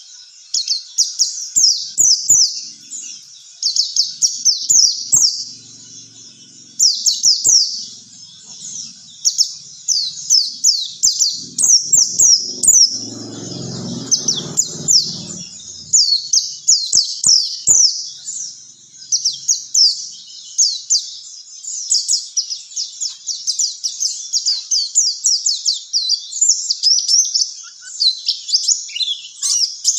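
White-eye (pleci) song: a long, fast run of high, sharply falling chirps, with brief pauses. A short low rumble sounds about halfway through.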